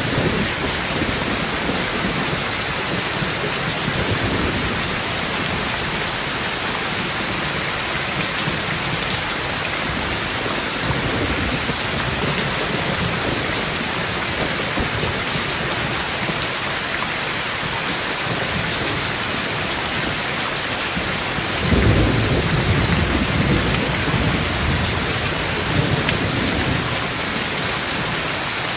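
Steady rain pouring down, with low rolls of thunder rumbling now and then; the loudest, longest rumble starts about three quarters of the way through.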